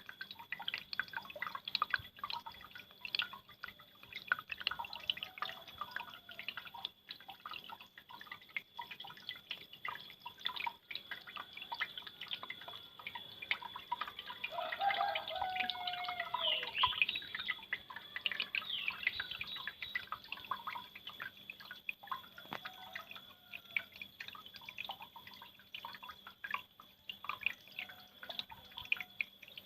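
Water trickling and dripping from a small homemade waterfall, a dense, continuous patter of quick drips and splashes.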